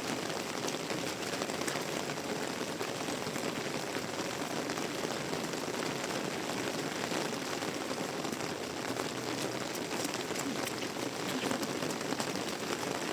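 Heavy tropical rain falling steadily, a continuous hiss of rain with many separate drop ticks through it.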